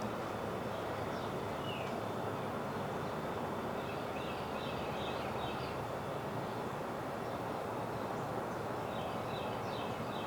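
Small songbirds chirping in short clusters of quick high notes, a few around four to six seconds in and again near the end, over a steady background hiss.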